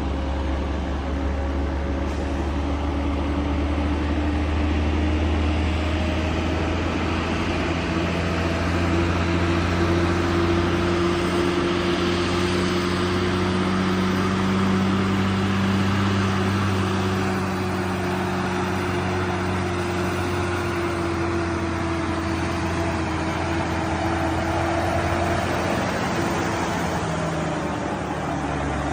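Heavy-haul truck's diesel engine pulling a loaded trailer uphill, running steadily under load; its pitch rises slowly and then eases back down.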